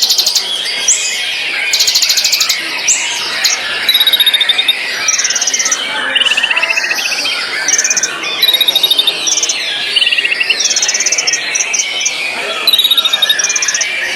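White-rumped shama (murai batu) singing continuously: a dense run of varied whistles and fast buzzy trills of quickly repeated high notes, one phrase after another with almost no pause.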